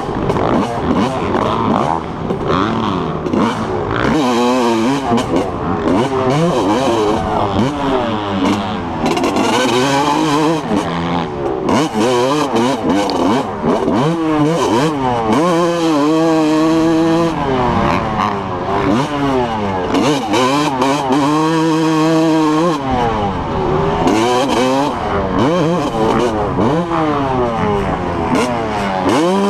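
Several dirt bike engines revving hard through a race. The pitch climbs and drops again and again as the riders open the throttle, shift and back off.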